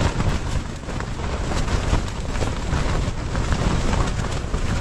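Strong gusting wind buffeting a tent, with heavy rumbling wind noise on the microphone and irregular flaps and rattles.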